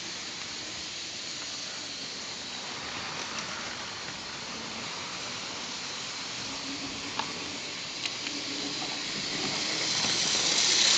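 OO gauge model trains running on the layout track: a steady hissing rumble of wheels and motors, with a few faint clicks, growing louder near the end as a train comes round toward the microphone.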